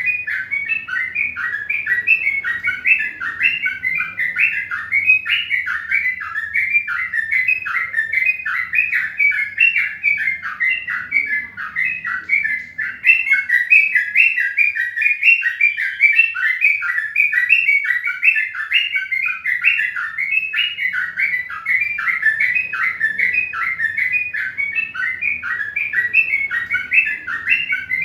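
Birds chirping in a dense, unbroken stream of short rapid chirps.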